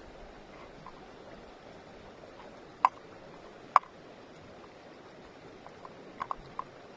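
Two sharp clicks a little under a second apart, then a few fainter clicks near the end, over a steady low hiss.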